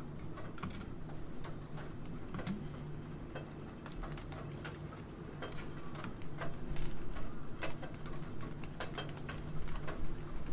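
Typing on a computer keyboard: irregular keystroke clicks, some in quick runs, over a steady background of rain.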